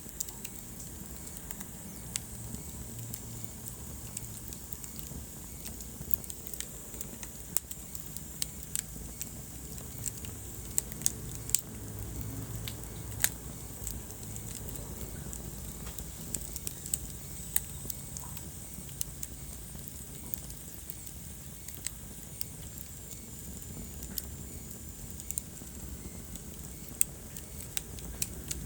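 Wood fire crackling in a fireplace: irregular sharp pops and snaps over a low, steady rumble of the burning logs.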